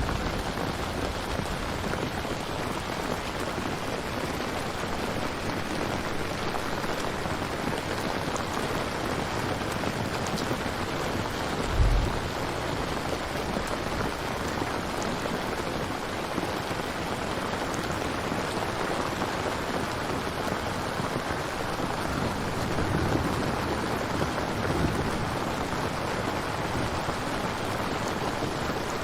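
Steady heavy rain falling, a dense even hiss. A single brief low thump stands out about twelve seconds in.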